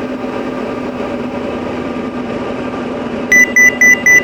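Diamond DA40's engine and propeller drone steadily in the cabin. About three seconds in, a rapid string of high beeps starts, about five a second. It is the altitude alert, warning that the plane is within 1,000 feet of its selected altitude.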